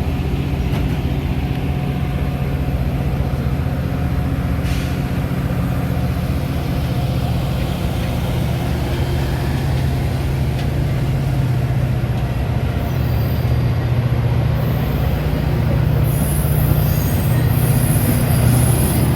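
Metra commuter train running, with a steady rumble and hum from the rolling stock. About three-quarters of the way through, high-pitched wheel squeal joins in.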